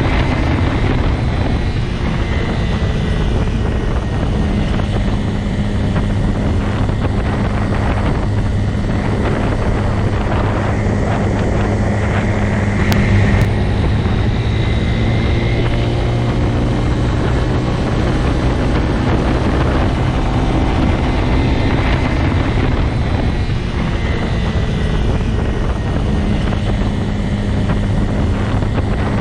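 Motorcycle engine running steadily, a continuous even drone with little change in pitch.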